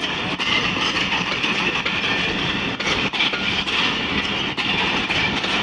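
Pakistan Railways passenger coaches rolling past close by: a steady rumble and rattle of steel wheels on the rails, with scattered clicks as the wheels run over the track.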